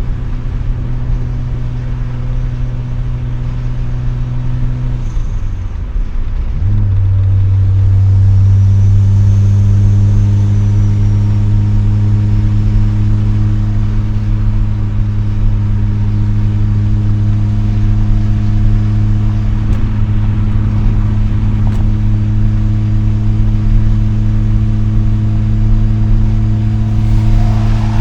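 Mazda RX-7 rotary engine through an RE Amemiya Dolphin Tail 90 curl exhaust, heard from inside the cabin with the windows down, holding a steady drone while driving. About five seconds in the note dips briefly, then it settles into a lower, louder steady drone.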